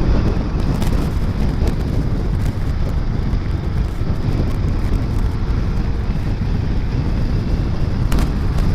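Wind buffeting the microphone of a motor scooter ridden in heavy rain, over the scooter's engine and road noise. A steady, dense rush with no clear breaks.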